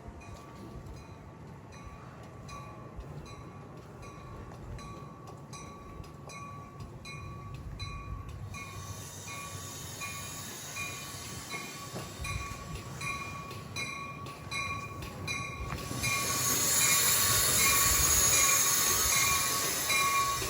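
Grade-crossing bell ringing at an even pace, about twice a second, while a train's rumble slowly grows. From about sixteen seconds in, loud wheel and rail noise with a high squeal as the train comes close.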